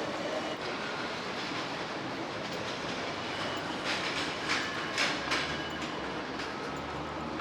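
Train running on rails: a steady rumble, with a cluster of sharp wheel clicks about four to five seconds in.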